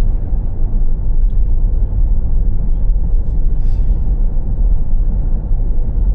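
Car driving along a road: a steady, loud, low rumble of engine and tyres heard from inside the moving vehicle.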